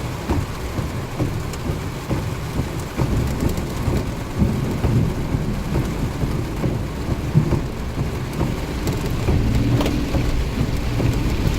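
Heavy rain falling steadily in a thunderstorm, with low thunder rumbling underneath.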